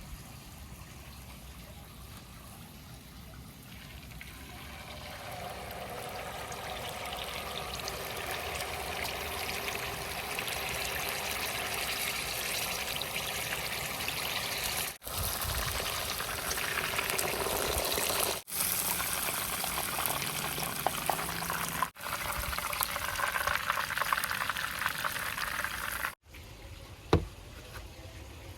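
Steady rushing noise like running or pouring water, building up over the first few seconds. It breaks off abruptly several times, with a single click near the end.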